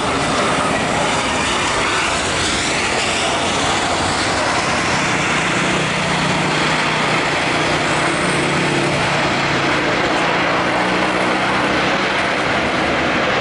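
Batik Air Airbus A320-232's IAE V2500 jet engines passing low on final approach: a loud, steady jet noise with a whine that falls in pitch about two seconds in, and a low hum underneath later on.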